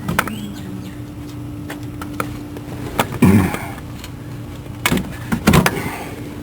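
Scattered metallic clicks and knocks from tools and car parts being handled during a starter replacement, a few seconds apart, over a steady faint hum.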